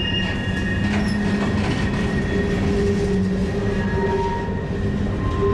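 Freight cars of a long CN freight train rolling past, steel wheels rumbling on the rail, with steady high-pitched wheel-flange squeal as the cars work through the curve out of the tunnel.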